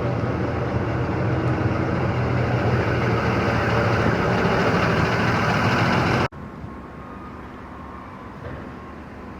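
A heavy vehicle's engine running steadily and growing a little louder, cut off abruptly about six seconds in, leaving a quieter steady background.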